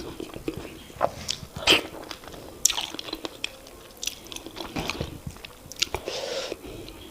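Close-miked eating of semolina fufu and oha soup: wet chewing, lip smacks and sharp mouth clicks at an irregular pace, with a short wetter, noisier stretch near the end.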